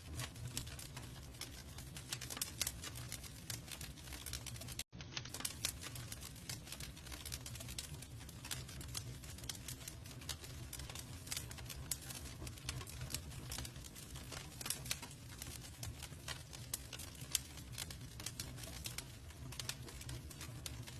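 Campfire crackling: frequent small crackles and sharper pops from burning wood over a steady low rumble. The sound drops out for an instant about five seconds in, and a louder pop comes near the end.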